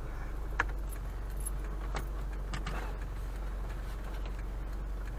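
Steady low hum of a car heard from inside while driving, with a few faint, scattered clicks and light rattles.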